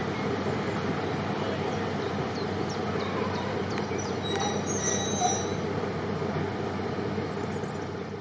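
Diesel-hauled heritage train running on the line: a steady rumble of engine and wheels, with a few brief high squeals from the wheels about four to five seconds in.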